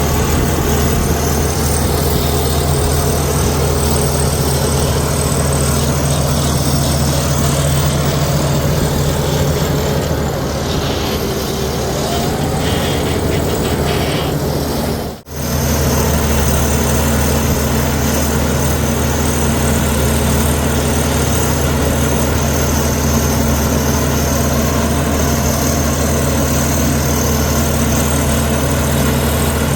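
Komatsu D61EX bulldozer's diesel engine running steadily, with one sudden brief break in the sound about halfway through.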